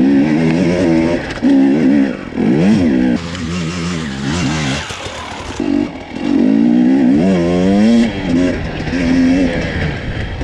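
2019 Husqvarna TE250i two-stroke fuel-injected enduro motorcycle engine, revving up and down repeatedly under changing throttle. There is a quick rise and fall in revs about two and a half seconds in, then a few seconds where the engine note drops back under a rougher, noisier sound, before the revs climb again.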